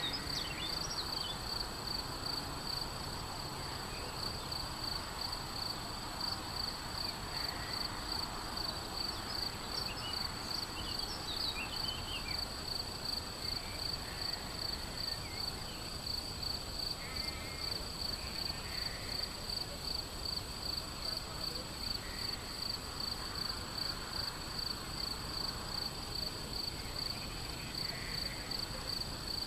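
A cricket chirping in a steady, even rhythm of about two to three chirps a second, with a few faint bird calls scattered through.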